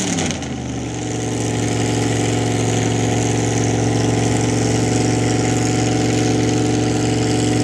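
Mud truck engine coming down from a brief rev right at the start, then idling steadily.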